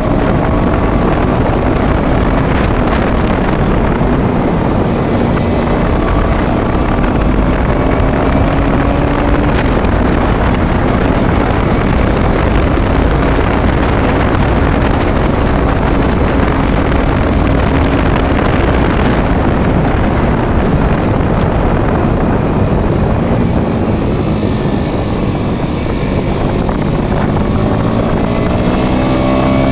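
Motorcycle engine running at road speed, largely buried under heavy wind noise on the microphone; its pitch drifts gently, then climbs near the end as it speeds up.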